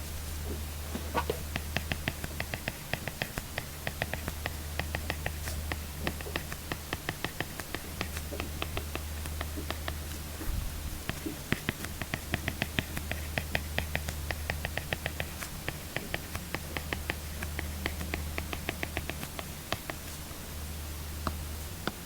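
Apple Pencil tip writing on an iPad screen: quick runs of light clicks and taps, several a second, in bursts with short pauses between strokes, over a steady low hum.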